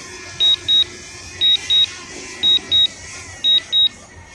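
Drone controller's low-battery warning: a high double beep repeating about once a second, four times, signalling that the drone's battery is nearly flat.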